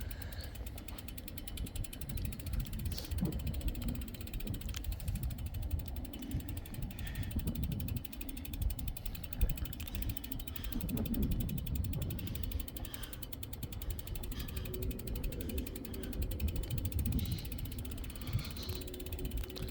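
Bicycle freewheel ratchet ticking rapidly and steadily as the bike rolls without pedalling, over a low rumble.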